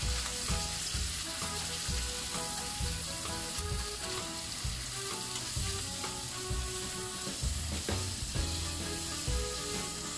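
Sliced onion and bacon sizzling in a frying pan over a gas flame, a steady frying hiss, while wooden chopsticks stir and toss them.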